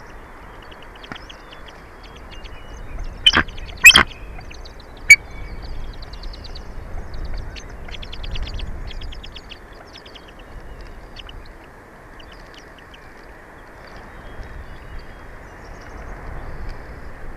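Bald eagle and eaglets calling at the nest: rapid trains of high chittering notes on and off throughout, with a few loud sharp calls about three to five seconds in, over a steady low background noise.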